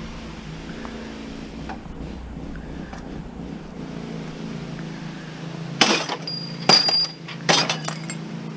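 Pieces of scrap metal clanking and clinking together as they are handled, with three loud clatters in the second half, one leaving a brief high ring. A steady low hum runs underneath.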